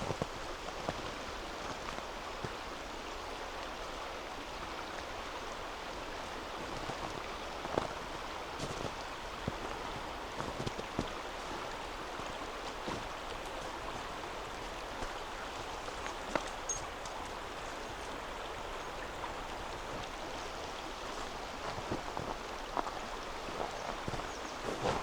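River water flowing and rushing steadily, with scattered faint clicks and ticks over it.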